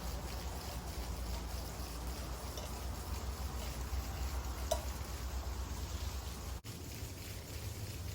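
Food sizzling in a pan during stir-frying, over a steady low rumble. There is a single sharp click about halfway through, and the sound drops out for an instant shortly after.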